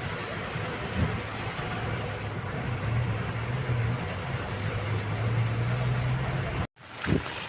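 Inside a truck's cabin while driving through a heavy rainstorm: rain beating on the roof and windshield as a dense, steady noise over the low drone of the engine and road. Near the end the sound cuts out abruptly and gives way to a lighter noise with a few sharp clicks.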